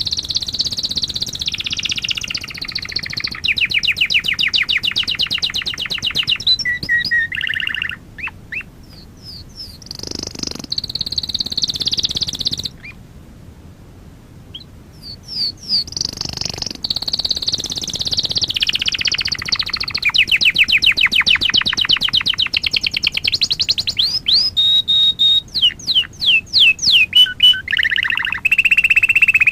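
Domestic canary singing a long, loud song of fast trills and whistled sweeps, with a short pause about halfway before the song starts again.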